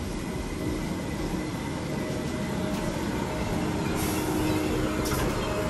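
Merseyrail electric multiple-unit train pulling into the platform and slowing past at close range, its running noise and steady whine growing louder, with a short hiss about four seconds in.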